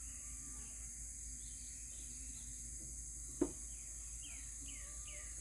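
Outdoor ambience: a steady high drone of insects, one sharp knock about halfway through, and a bird calling a run of quick falling notes near the end.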